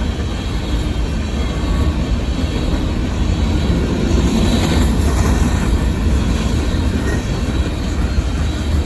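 Cars of a long Union Pacific coal train rolling past with a steady low rumble.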